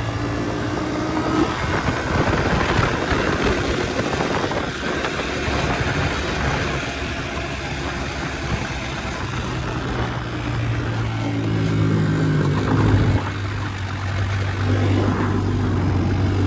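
Honda 110 pit bike's single-cylinder four-stroke engine, with a freshly rebuilt top end, running under way and revving up and down as it is ridden. The sound cuts off abruptly at the end.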